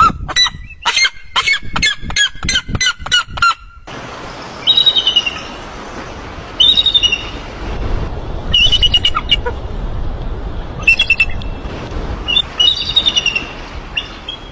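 Birds calling: a quick run of short, clicky notes for about four seconds, then harsh squawking calls about every two seconds over a steady background rumble.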